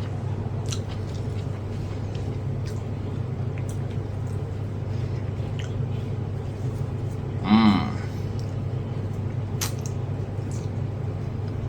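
A person eating: faint scattered clicks and smacks of chewing and handling food over a steady low hum. About two-thirds of the way through comes one short voiced sound, like a brief 'mm'.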